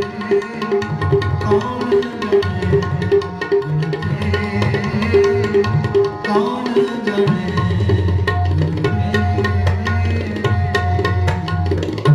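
Tabla playing a steady rhythm of about four strokes a second, the bass drum's pitch sliding up and down, over sustained harmonium tones in Sikh kirtan.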